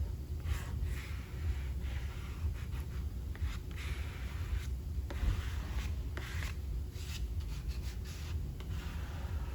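A dozen or so short, irregular scratching strokes of a tool being drawn across a surface by hand, over a low steady hum.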